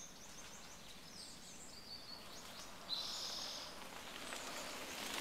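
Faint bird calls over outdoor background noise: a few short, high chirps, then a longer high note about three seconds in.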